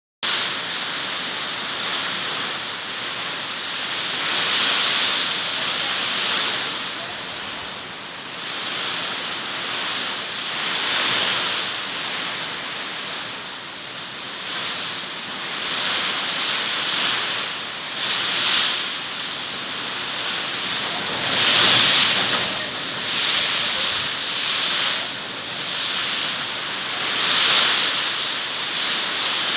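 Heavy rainstorm: a steady downpour of rain, swelling and easing every few seconds, loudest at about 5, 11, 18, 22 and 27 seconds in.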